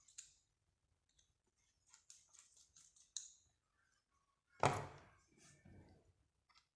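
Faint clicks and scraping from small objects being handled, with one louder knock a little past the middle.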